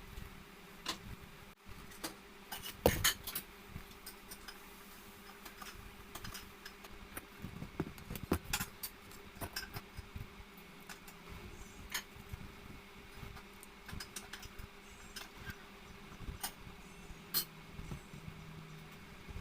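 Kitchen utensils and dishes clinking and knocking in irregular, scattered taps during food preparation, over a faint steady hum.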